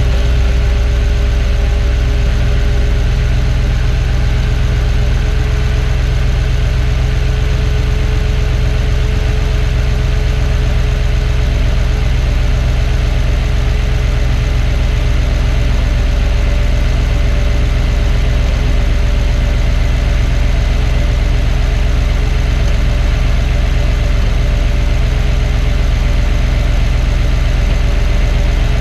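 Audi 4.2-litre V8 idling steadily, run just after an oil change so it can be checked for leaks.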